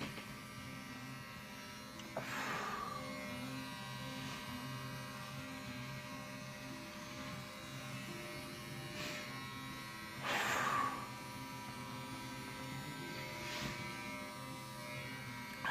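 Electric hair clippers buzzing steadily while shaving a head, with about three brief louder swishes.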